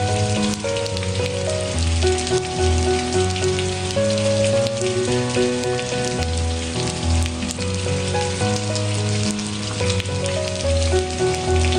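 Steady rain hiss mixed with soft background music: held melodic notes over a low bass line that change every second or so.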